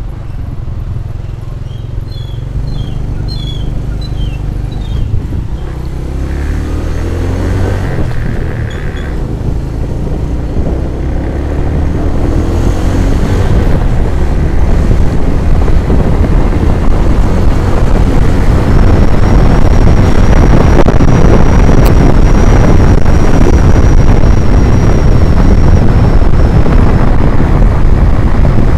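Engine of a road vehicle on the move, its pitch rising as it speeds up, while wind rushing over the microphone grows louder and covers it from about halfway on.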